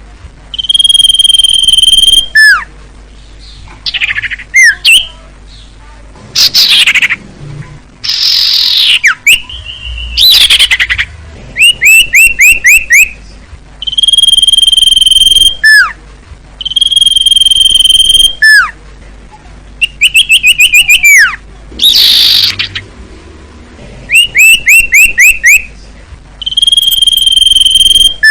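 Sirtu cipoh (iora) song played as a bird-tutor recording. Long, steady, high whistles held about a second and a half alternate with quick runs of short down-slurred notes, about seven a second, and a few harsh sweeping calls.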